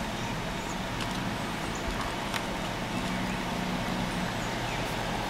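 A steady low engine hum, with a faint pitched drone growing clearer for about a second past the middle, and a few faint clicks.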